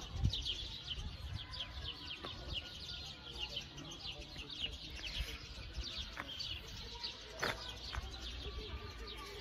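Songbirds singing: a continuous stream of short, high, quick chirps and twitters.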